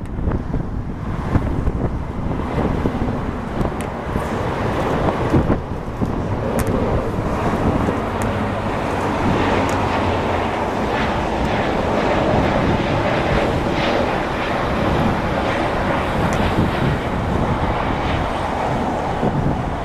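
Airbus A320neo's Pratt & Whitney PW1100G geared turbofans at takeoff power: a steady jet roar that grows fuller a few seconds in and holds, with wind buffeting the microphone.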